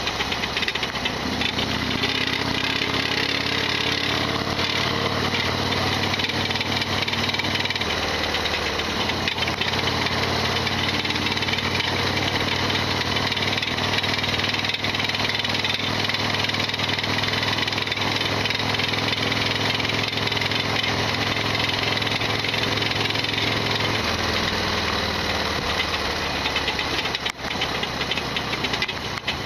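Harley-Davidson Sportster XL1200R's 1200 cc air-cooled V-twin running while being ridden, its engine note shifting in pitch a few times. Heavy mechanical rattling runs through the engine sound, the loud abnormal noise this bike is known to make.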